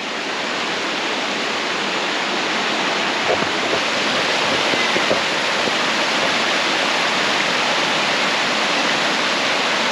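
Waterfall on the North Johnstone River: a steady, loud rush of falling water that swells a little over the first second or two.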